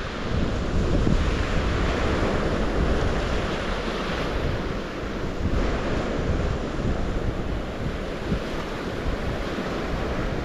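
Water rushing steadily, swelling and easing every few seconds, with wind rumbling on the microphone.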